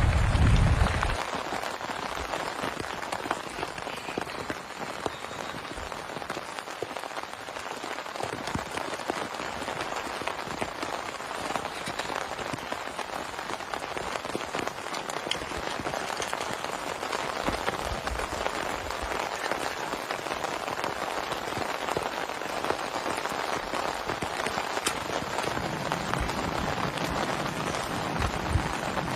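Heavy rain falling steadily, a dense even patter on a surface. A low buffet of wind on the microphone dies away in the first second.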